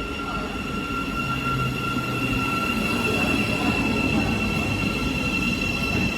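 Train moving through the station: a low rumble with a steady two-note high-pitched whine, growing a little louder toward the middle.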